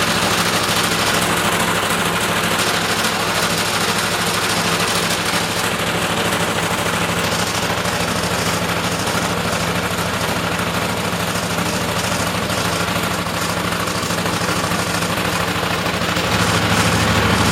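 A large truck engine idling with a rapid, choppy exhaust pulse, under a steady hiss of water spray from washing hoses.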